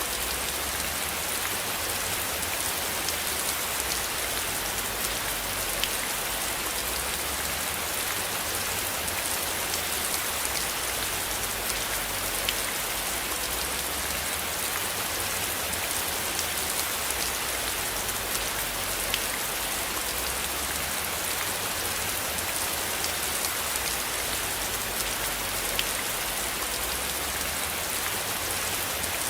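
Steady rain falling: an even hiss dotted with many small drop ticks, with a low rumble underneath.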